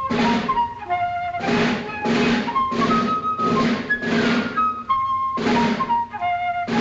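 Orchestral cartoon score: a flute-led melody in short stepping notes over a regular run of loud percussion hits, roughly two every second or a little faster.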